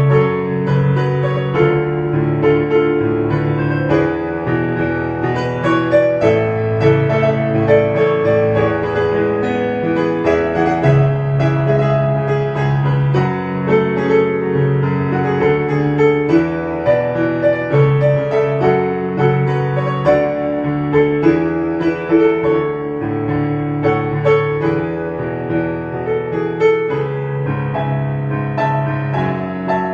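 Background piano music: a steady run of gentle piano notes and chords.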